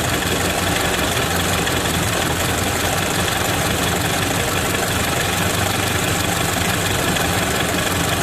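Ford Model A four-cylinder flathead engine idling steadily at low rpm, its carburetor idle screws freshly adjusted; the owner thinks it runs a little better.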